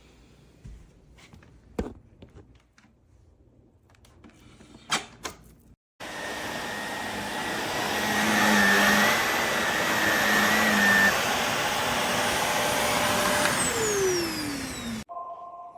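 Shark Navigator NV360 upright vacuum running loud with a steady whine, starting suddenly about six seconds in. Near the end it is switched off and the motor's pitch falls as it winds down. A few sharp clicks come in the quiet before it starts.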